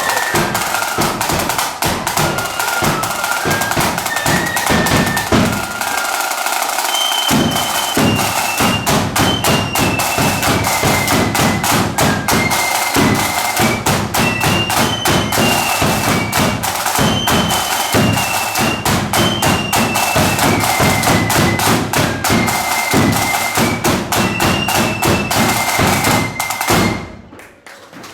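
Marching flute band playing a tune: a high flute melody over fast, dense snare drumming and bass drum beats. The music ends abruptly about a second before the end.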